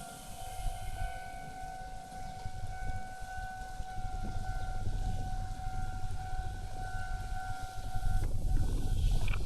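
Konan Railway 7000 series (ex-Tokyu 7000) electric train standing at the platform with a steady high-pitched tone and low rumble; about eight seconds in the tone stops and the rumble grows louder as the train starts to pull away.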